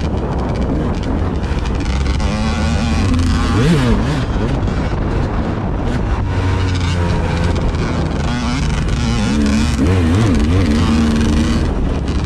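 A vehicle engine running, its pitch rising and falling a few times, under heavy wind noise on the microphone.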